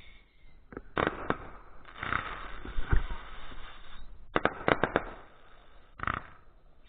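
Fireworks going off: a series of sharp bangs with hissing and crackling between them, and a quick cluster of bangs about four and a half seconds in.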